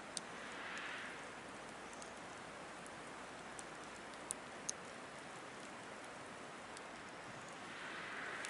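Wood fire burning in a Picogrill 760 fire pit: a steady hissing crackle with a few sharp pops of the burning logs, and gentle swells in the hiss about a second in and near the end.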